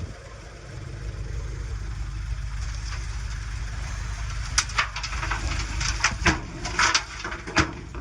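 Komatsu D20P bulldozer's diesel engine running with a steady low rumble, and several sharp knocks and clatters in the second half, as of stone and steel striking while pushing rock.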